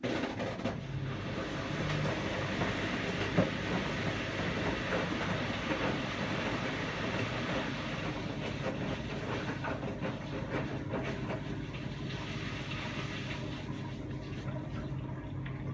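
Washing machine running: a steady rumble and hiss with a low motor hum and light rattling clicks, starting abruptly.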